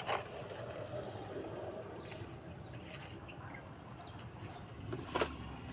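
A few faint knocks and clicks from hand masonry work, stones and a trowel handling mortar, over a low background hiss and hum.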